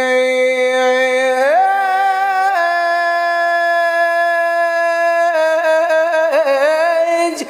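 A male chanter's voice holding long drawn-out notes without words. The pitch glides up about a second and a half in, settles on a new held note, then wavers in quick ornamental turns near the end.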